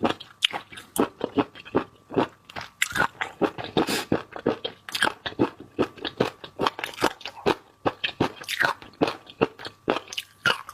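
Close-miked eating: a person biting and chewing food with repeated crunchy, wet mouth sounds, several a second.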